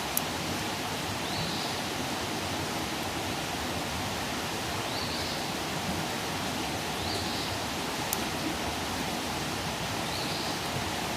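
Outdoor wood campfire burning with a steady rushing hiss and two sharp crackling pops, one right at the start and one about eight seconds in. A faint high chirp repeats every few seconds.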